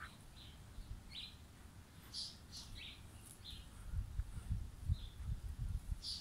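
Small birds chirping in short, scattered calls, with low rumbling thumps growing louder from about four seconds in.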